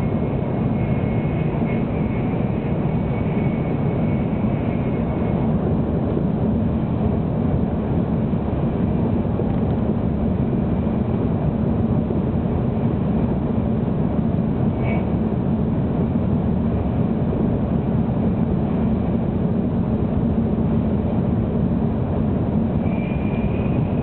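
Steady low rumble inside the passenger cabin of a Tokaido Shinkansen 700 series train running at speed. A faint high whine fades out about five seconds in and returns near the end.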